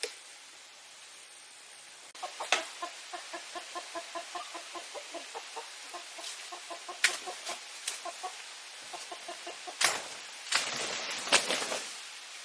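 A hen clucking in a quick, even run of low notes, about five a second, for several seconds. A few sharp knocks come through it, and a short burst of rustling or wing-flapping comes near the end.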